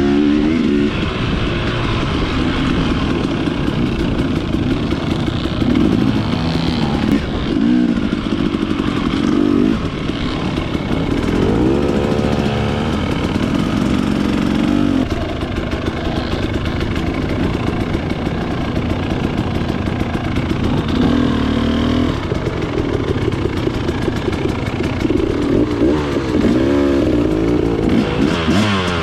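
Dirt bike engine running hard while ridden, its pitch rising and falling again and again as the throttle opens and closes.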